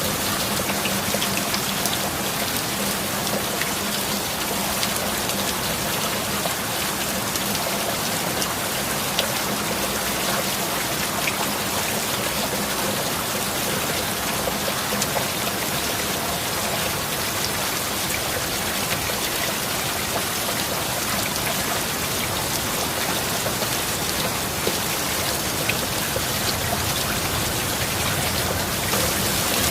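Steady heavy rain, a dense hiss with scattered sharp drop ticks, over a faint low steady tone mixed in.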